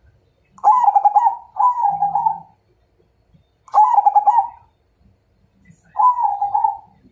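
Zebra dove (perkutut) cooing: four phrases of its rapid, rolling coo, the first two back to back and the others a couple of seconds apart.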